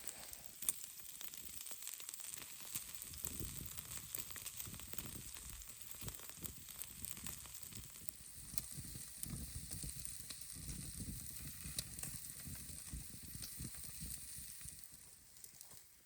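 Steady sizzling over a campfire, with many short sharp crackles scattered through.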